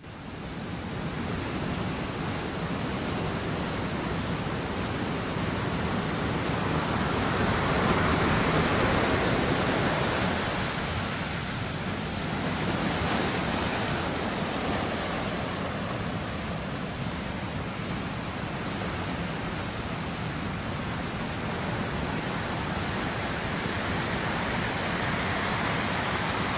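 Sea waves washing onto a shore: a steady hiss of surf that swells about eight seconds in and again a few seconds later.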